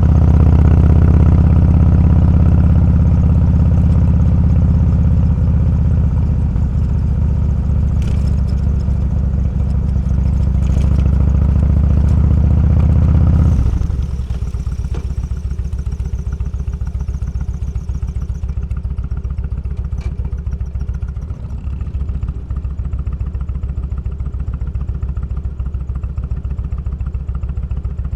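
Motorcycle engine running on the road under steady throttle. About halfway through it drops suddenly to a quieter, evenly pulsing run, as when the throttle is rolled off.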